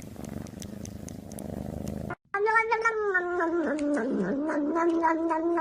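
A domestic cat purring with a low rumble, then, after a sudden cut, a cat's long drawn-out yowl that holds one pitch with slight wavers.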